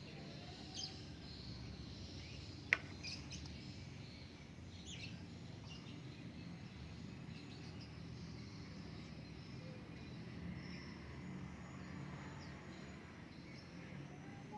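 Faint bird chirps over a steady low background hum, with one sharp click about three seconds in.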